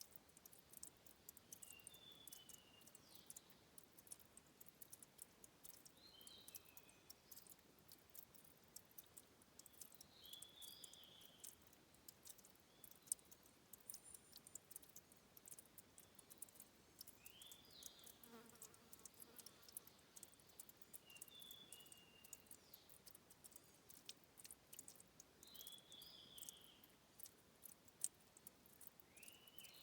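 Faint water dripping and trickling at a stream's source, heard as many small quick clicks and pats. Short high chirping calls from a small animal come every four seconds or so.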